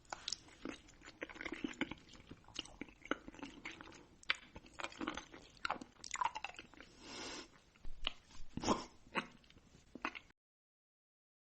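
Crunchy food being bitten and chewed close to the microphone: a dense run of crisp cracks and crunches that stops about ten seconds in.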